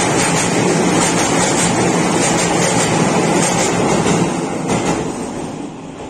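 Passenger train crossing a steel girder railway bridge overhead, heard from beneath the span: a loud, steady rumble and clatter of the carriages on the rails that fades away over the last second or so.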